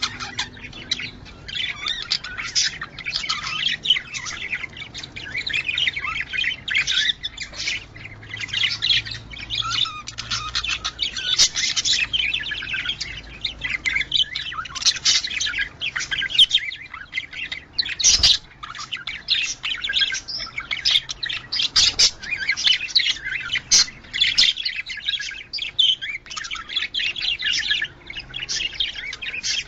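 Budgerigars warbling and chirping in a continuous, rapid chatter with occasional squawks, the chattering song budgies use in courtship and breeding. A few sharp clicks break in, one about two-thirds of the way through.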